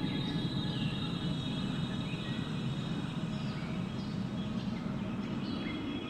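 Steady wind rushing, with a low, even rumble and thin, held whistling tones above it, plus a few faint high chirps now and then.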